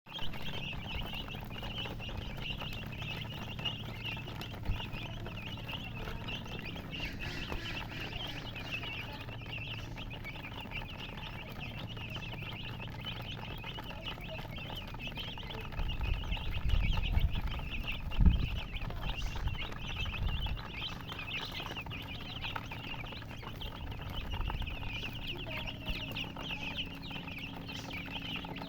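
A brood of chicks peeping continuously in a dense, high-pitched chorus. A few low thumps and rumbles come about halfway through.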